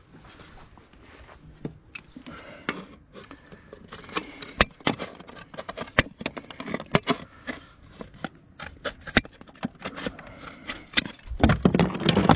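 A fibre-cement slate being roughly trimmed by chopping at its edge: a run of irregular sharp cracks and knocks with some scraping, busiest near the end.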